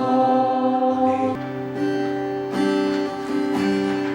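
Acoustic guitar strumming chords in a worship-song intro. A held sung chord ends about a second and a half in, and the guitar changes to new chords.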